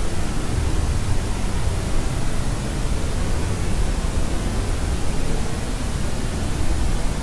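Steady, unbroken white noise with most of its weight in the low end, like pink noise, at an even level.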